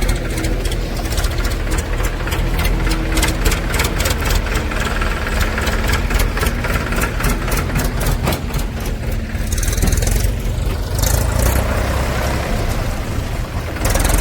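Heavy diesel engine running steadily, with a fast clattering knock through the middle.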